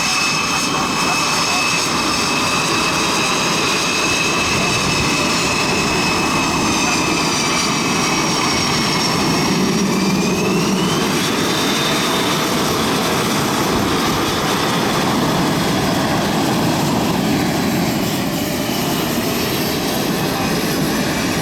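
Blue Angels F/A-18 Super Hornet jet engines running at taxi power: a steady roar with a high turbine whine, one whine rising in pitch about halfway through.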